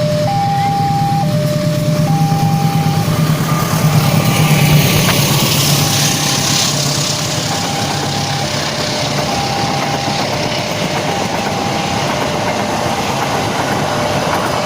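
A train passes: a diesel locomotive's low engine hum and rail noise swell about four to seven seconds in. Through it, a two-tone warning signal alternates high and low about once a second, fading as the train noise rises.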